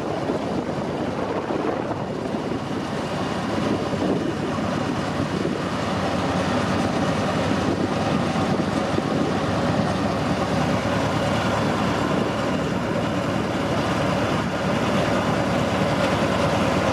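Narrow-gauge tourist train rolling along the track: a steady rumble and rattle of wheels and cars. From about six seconds in, a faint steady squeal runs on top of it.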